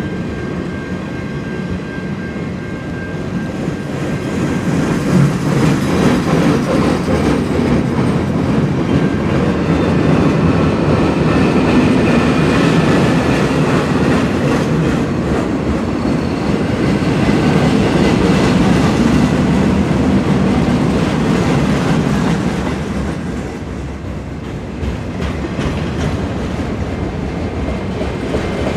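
Lake State Railway freight train rolling by, its steel wheels running on the rails with a steady rumble and rapid clatter. It grows louder about five seconds in and eases off near the end.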